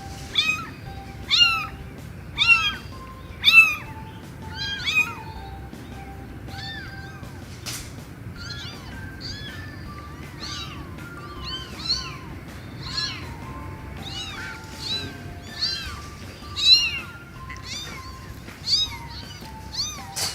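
A cat meowing over and over in short, high mews that rise and fall in pitch, about one a second, loudest in the first few seconds, over background music of plain held notes.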